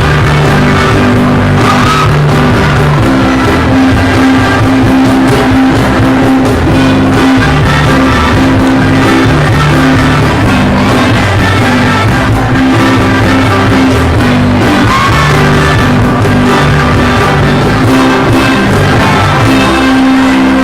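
A loud live band ensemble playing rock music with guitar and bass, with some singing, recorded with distortion from an overloaded microphone.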